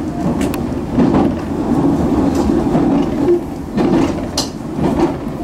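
Electric passenger train running along the line, heard from the front of the train: a steady rumble of wheels on rail with scattered sharp clicks.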